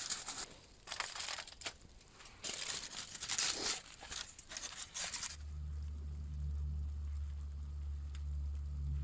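Aluminium foil crinkling and tearing as a sheet is pulled off and pressed around a frying pan, in irregular bursts for about five seconds. A steady low hum then takes over.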